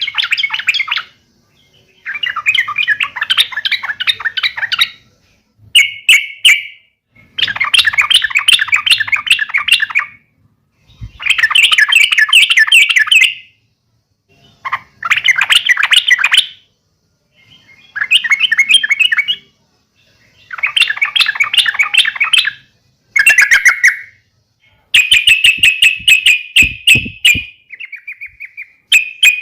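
Yellow-vented bulbul (trucuk) giving its aggressive 'fighting' call: loud bursts of fast, bubbly chattering, each one to three seconds long, with short silent gaps between them.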